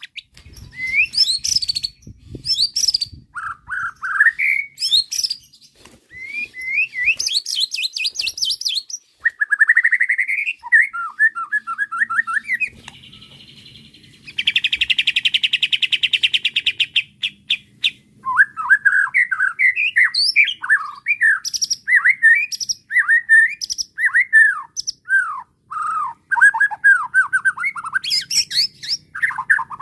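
White-rumped shama (murai batu) in full, agitated song: varied clear whistled phrases, a harsh buzzy rattle lasting several seconds about halfway through, then a long run of quick downward-sweeping whistles.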